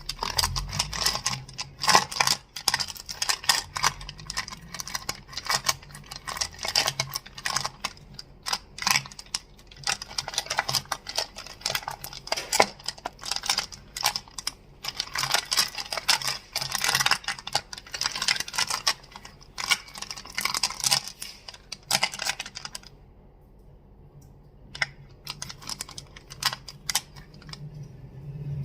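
Crystals clicking and clacking in rapid, dense strokes for about 23 seconds, then only a few scattered clicks near the end.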